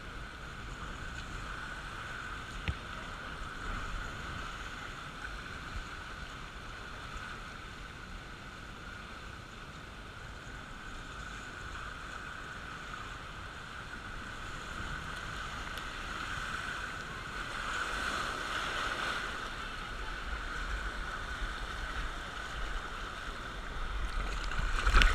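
Water rushing along a raft water-slide flume as the raft slides down, a steady rush that swells louder for a few seconds past the middle, with low wind rumble and a few knocks on the microphone.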